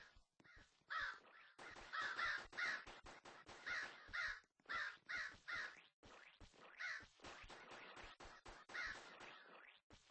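Crow cawing: about a dozen short, harsh caws, some single and some in quick runs of two or three.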